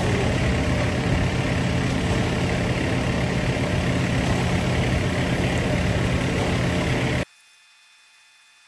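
Diesel engine of a ready-mix concrete truck running steadily while it pours. It cuts off suddenly about seven seconds in, leaving only a faint hum.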